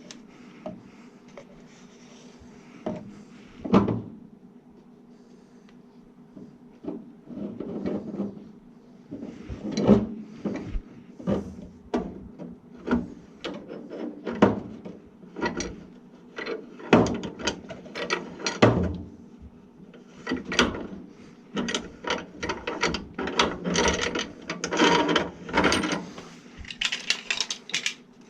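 Hand work on furnace drain fittings in a tight cabinet: irregular clicks, knocks and rattling of tools and plastic parts, coming thicker and faster in the second half, over a steady low hum.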